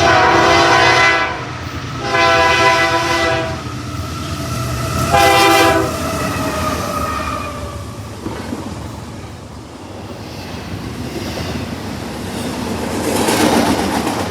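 Freight locomotive air horn sounding the grade-crossing pattern: two long blasts, a short one, then a longer fading note. Then the rumble and wheel clatter of the train rise as it draws near.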